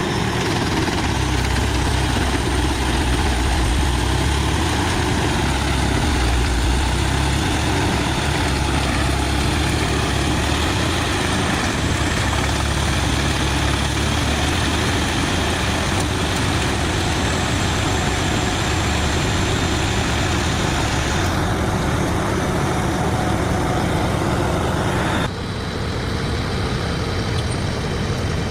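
Diesel-powered mobile drum wood chipper running steadily, with a heavy low engine drone under a dense mechanical noise. The sound changes abruptly about 25 seconds in.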